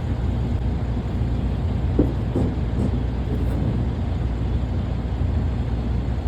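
Semi-truck diesel engine running at a low, steady idle, heard from inside the cab, with a few light knocks about two seconds in.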